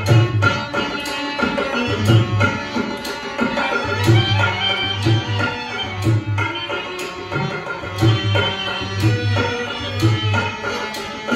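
Live Rajasthani folk music: a hand drum plays repeated low beats and sharp strikes under a sustained melody instrument.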